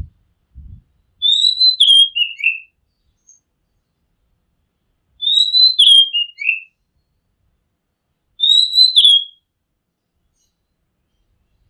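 Oriental magpie-robin singing three short whistled phrases a few seconds apart, each a rising note that breaks into falling notes.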